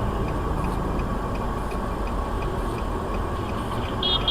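Steady vehicle running noise with a faint, regular ticking over it, and a short high electronic beep near the end.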